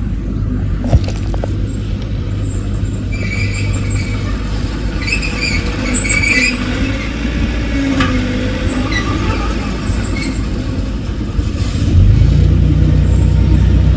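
Heavy earthmoving machine's diesel engine running steadily, growing louder about twelve seconds in as it takes on more throttle. Brief high squeaks come and go through the middle.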